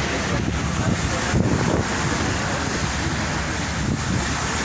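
Steady wind buffeting the microphone, with a low rumbling rush underneath, heard aboard a ship.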